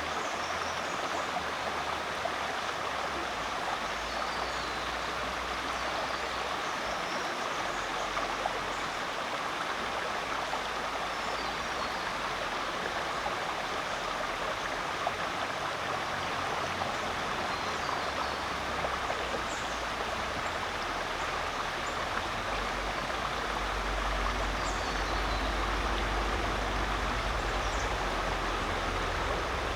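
Rainforest creek flowing steadily over rocks, a constant rushing and babbling of water.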